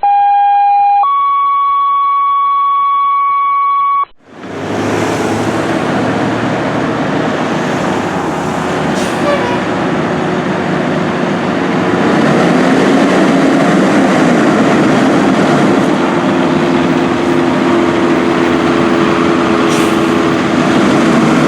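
Two steady electronic tones open the sound, a lower one for about a second and then a higher one for about three seconds, and they cut off suddenly. A fire engine's diesel engine follows, running loud with road and wind noise, and grows louder about halfway through.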